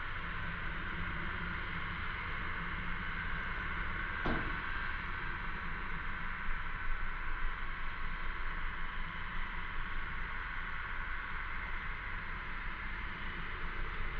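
Cicadas buzzing in a steady, unbroken chorus, with a low rumble underneath and a single short click about four seconds in.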